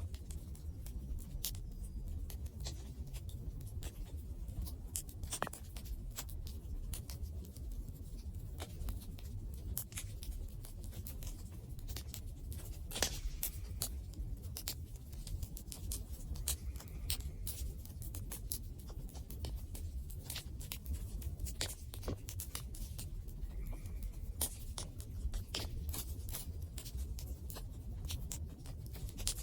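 Campfire wood burning, crackling with frequent irregular sharp pops over a low steady rumble; one louder pop about halfway through.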